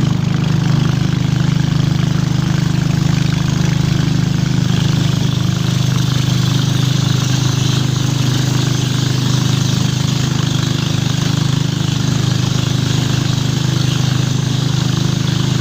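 A small engine running steadily at a constant speed, with a deep, even hum.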